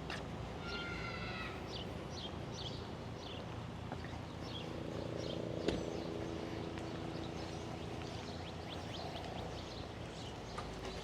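Songbirds chirping in short, repeated notes over a steady low rumble, with one drawn-out buzzy call about a second in. A single sharp click comes about halfway through.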